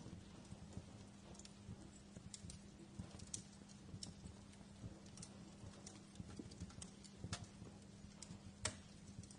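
Wood fire crackling quietly: scattered, irregular pops and ticks, the sharpest just before the end, over a low rumble and a faint steady hum.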